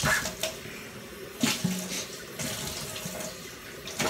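Kitchen tap running into the sink while things are rinsed, a steady hiss of water with a couple of short knocks, at the start and about a second and a half in.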